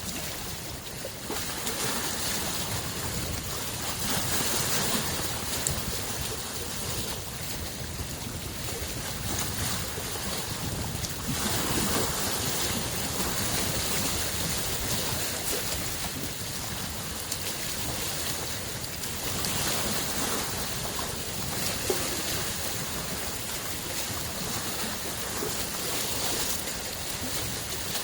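Small lake waves washing on the shore, rising and falling in irregular surges every few seconds.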